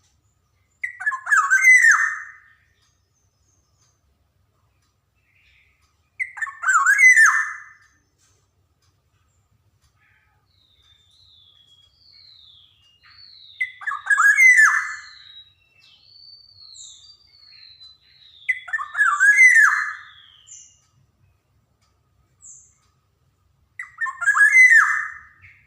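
Black-naped oriole calling: five loud calls of over a second each, coming every five to eight seconds, with fainter high whistled notes sliding up and down between them in the middle.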